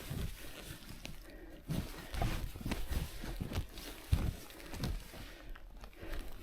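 Skis and ski poles crunching and pushing in deep powder snow: a string of irregular soft crunches and thuds. The skier is stuck, the powder too deep to let the skis glide.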